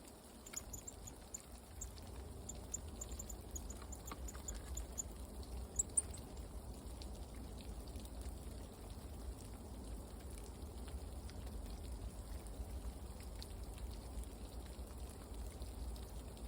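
Small birds at a forest feeder giving a rapid series of thin, very high chirps during the first five seconds, with one more a second later, over a steady low noise.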